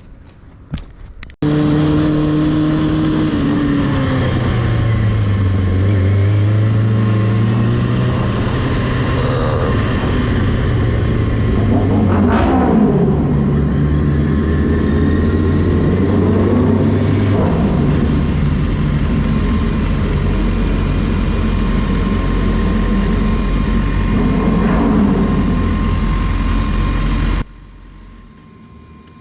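Motorcycle engine running loud and close, its pitch falling and settling, then shifting several times with a few brief swells. It cuts in suddenly about a second in and stops abruptly near the end.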